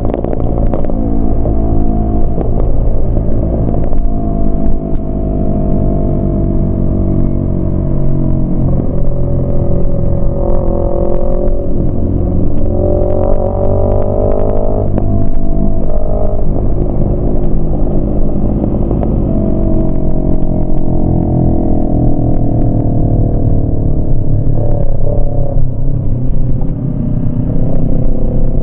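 Yamaha MT-25 parallel-twin motorcycle engine under way, revving up and easing off through the gears. The pitch climbs under throttle about halfway through and drops at a shift, then the revs fall slowly as the bike eases off.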